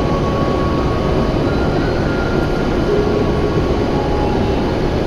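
A W7 series Shinkansen train running, heard from inside the car: a loud, steady rush of running noise with faint held whining tones that step in pitch now and then.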